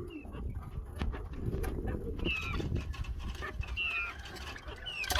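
A few short, high bird chirps, single notes falling slightly in pitch, over a low rumble and scattered clicks.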